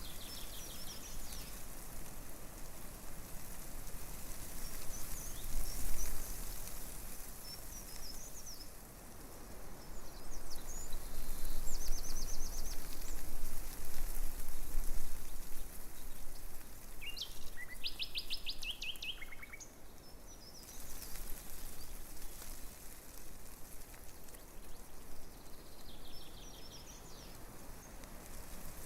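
Small birds chirping in short, rapid trills every few seconds over a steady rustle of wind through tree leaves. The rustle swells in gusts from about ten to sixteen seconds in, and the clearest trills come a little later, around eighteen seconds in.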